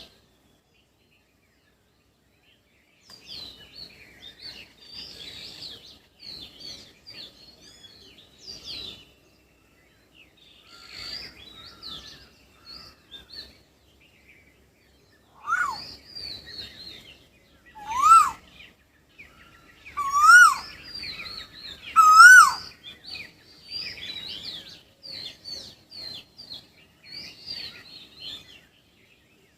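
Several wild birds chirping and twittering in high, quick notes. Midway, one bird gives four louder rise-and-fall calls about two seconds apart.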